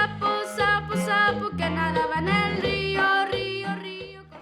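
Accordion playing norteño-style music: melody notes over a low bass line, fading out near the end.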